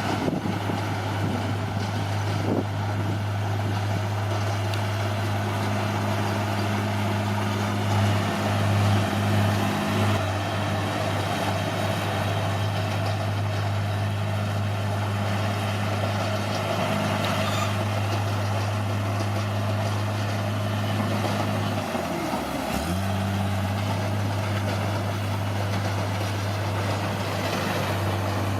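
Bulldozer's diesel engine running steadily under work, a constant low drone. About three-quarters of the way through, the pitch sags briefly and then recovers, as the engine takes a load.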